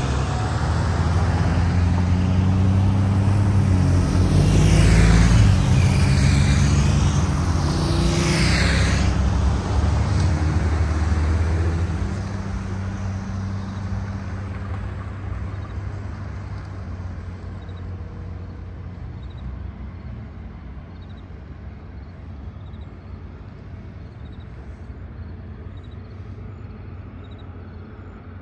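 Diesel freight train passing, with the rumble of the rear distributed-power locomotive, a CSX GE CW44AH, loudest about five seconds in. From about twelve seconds the train noise fades steadily as it moves away.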